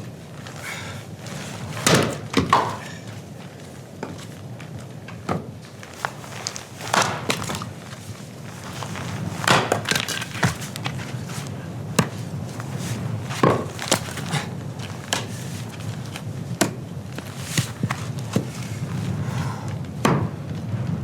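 Firewood being worked: about a dozen sharp wooden knocks and thunks at irregular intervals, over a steady low rumble.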